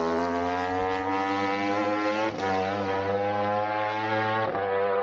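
Racing superbike engine pulling hard, its pitch climbing steadily, with two brief cuts about two seconds in and near the end as it changes up a gear.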